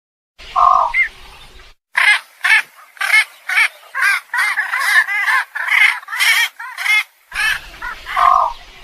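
Egret calling: one call about half a second in, then a quick run of about a dozen calls at roughly two a second, and one more call near the end.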